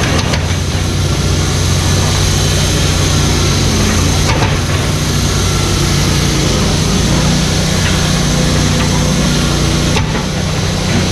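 Mini excavator's diesel engine running steadily, its note shifting slightly about halfway through, with a few faint knocks.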